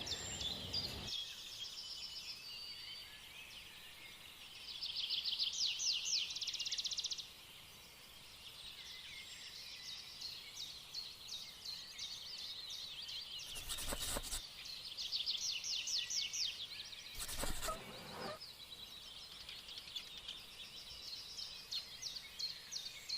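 Outdoor ambience of small birds chirping, with a dense chirping trill a few seconds in. Two short, loud thumps stand out, about three and a half seconds apart.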